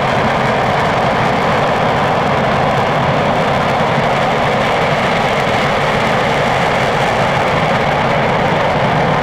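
RS-25 liquid-hydrogen/liquid-oxygen rocket engine firing steadily on a test stand: a loud, unbroken rushing noise with no change in level.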